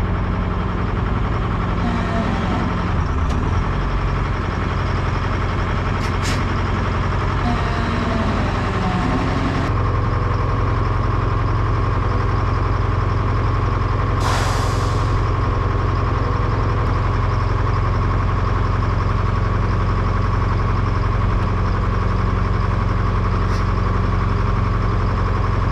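Vehicle engine running steadily while driving, a constant low drone that shifts slightly about ten seconds in, with a short hiss of about a second around fourteen seconds in.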